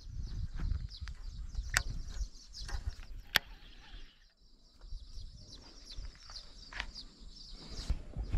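Birds chirping in quick repeated notes, pausing briefly about halfway, over a low rumble that comes and goes. A few sharp clicks stand out, the loudest about three seconds in.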